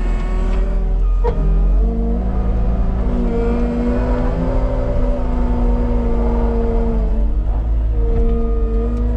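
Heavy equipment diesel engine running steadily under load, with a deep rumble and a couple of short knocks. The sound cuts off abruptly at the very end.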